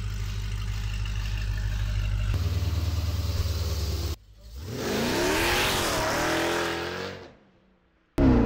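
High-performance Jeep Grand Cherokee V8 engine idling steadily, its note stepping up a little over two seconds in. After a short break it revs up with rising pitch, holds, and fades away near the end.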